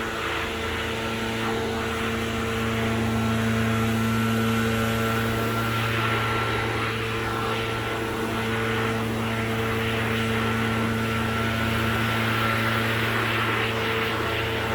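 Gas-powered backpack leaf blower running steadily at high throttle: a steady engine drone under a rush of air.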